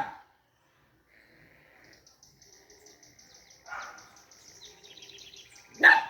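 A pause in a dog's barking at an opossum, with birds chirping faintly and steadily in the background. A softer bark comes about four seconds in, and a loud bark just before the end.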